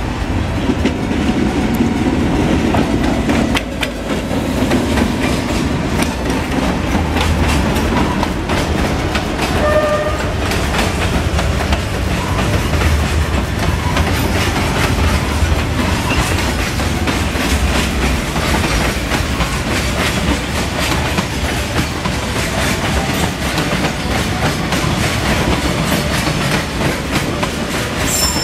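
Freight train hauled by a diesel locomotive rolling past, with a steady low rumble and a continuous clatter of wheels over the rail joints.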